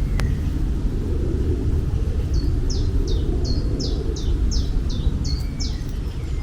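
A bird calling a quick run of about ten high, falling notes, about three a second, from about two seconds in to near the end, over a loud, steady low rumble.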